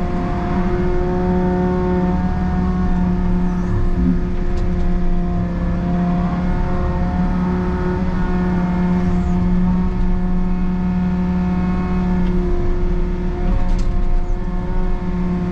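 Takeuchi excavator's diesel engine running steadily while it digs, its pitch shifting slightly a few times, with a few light knocks.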